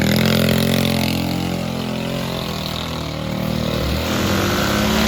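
Mini bike's small engine running; the revs drop off in the first second or so and build again toward the end.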